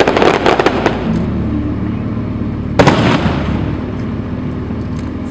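Aerial fireworks going off: a quick run of crackling bursts in the first second, then one loud bang a little under three seconds in, its boom fading away.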